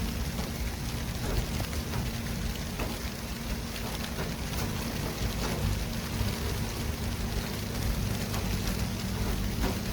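City traffic ambience: a steady hiss over a low rumble of vehicles, with a constant low engine hum and scattered light ticks.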